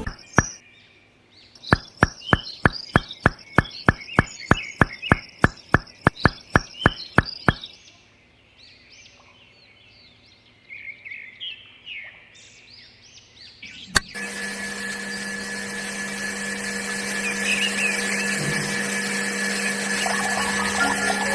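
A quick series of sharp clicks, about four a second, for several seconds, with bird chirps. Then a click, and a small motor starts and runs with a steady hum.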